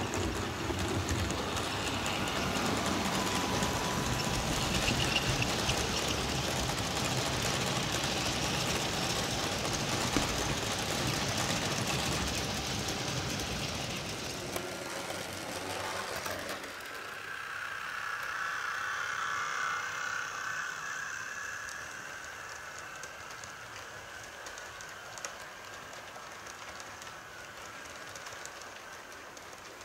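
A train running along the track; about sixteen seconds in, the sound changes abruptly to a quieter, thinner running sound.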